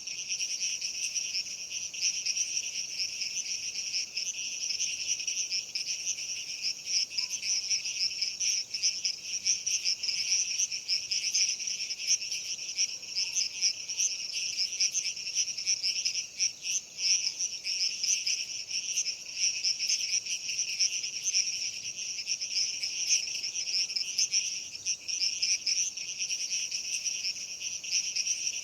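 Crickets chirping in a dense, steady chorus.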